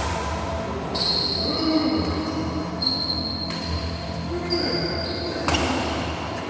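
Sports shoes squeaking on an indoor court floor during a rally, in several short high squeals, with a sharp hit about five and a half seconds in.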